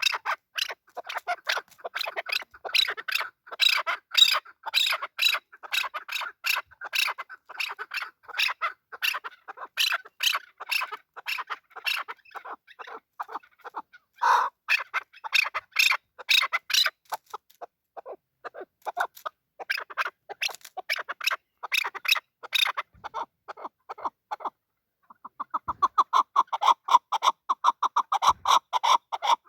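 Male chukar partridge calling: a long run of rapid, clucking chuk notes, a short pause near the end, then a fast rattling series.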